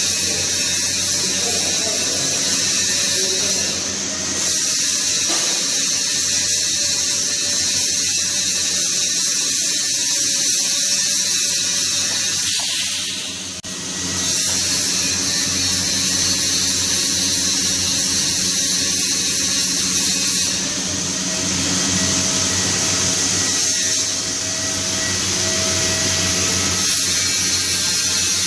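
Steady buzzing hiss of metalworking equipment in a welding shop, with short breaks about 4, 13 and 21 seconds in.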